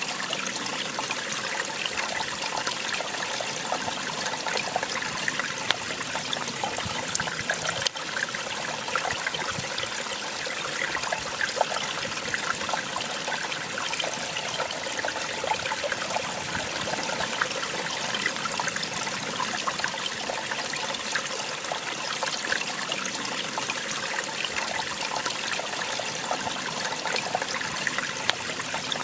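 Small waterfall splashing and trickling steadily, a continuous bright rush of water with fine splatters, and one sharp click about eight seconds in.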